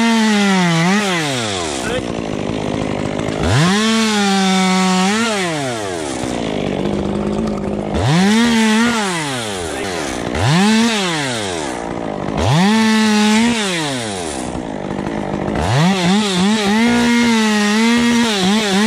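Chainsaw cutting wood, revved up about six times in bursts of one to three seconds. Each burst rises steeply in pitch, holds high while cutting, then winds down.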